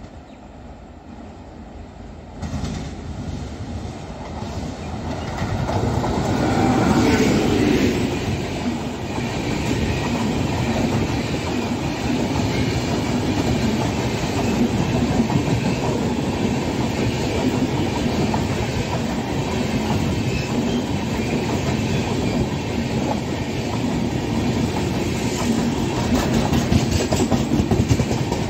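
Indian Railways express of LHB coaches, hauled by a WAP7 electric locomotive, approaching and passing at full speed. The rumble builds to its loudest about seven seconds in, then holds as a steady rush of coaches going by. Wheel clickety-clack over the rail joints grows sharper near the end.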